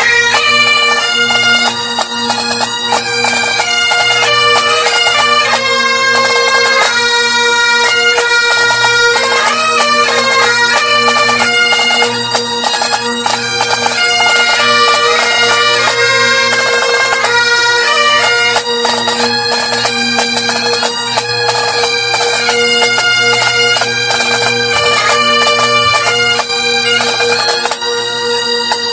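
Several Great Highland bagpipes played together: a steady drone under a chanter melody of held and quickly changing notes.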